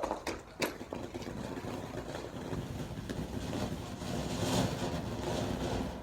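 A firework, just lit, burning with a steady rushing hiss that swells about four and a half seconds in, after a few sharp clicks at the start.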